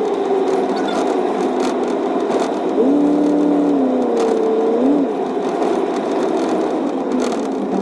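Straight-piped 5.3-litre V8 of a 1999 Chevrolet Silverado running, its exhaust note rising and falling in pitch a few times as the revs change.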